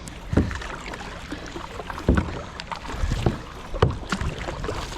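Kayak paddle strokes: the blade dipping and pulling through the water with splashes and drips, several strokes at uneven intervals over a steady wash of water.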